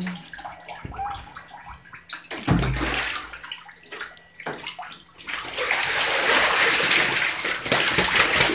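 Pet goose splashing in bathtub water: scattered small sloshes and drips, a heavier splash with a low thump about two and a half seconds in, then a few seconds of steady, louder splashing near the end.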